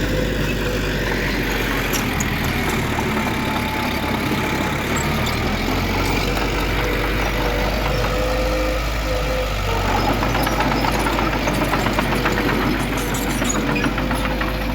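Heavy diesel earthmoving machinery running steadily, with a thin steady whine over the rumble. From about ten seconds in there is a denser metallic clatter and the sound grows slightly louder.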